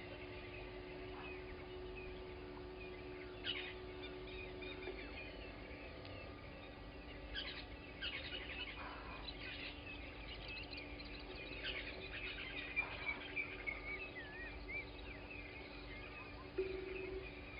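Birds chirping and calling, many short overlapping calls and trills. A faint steady low hum underneath stops about five seconds in and comes back near the end.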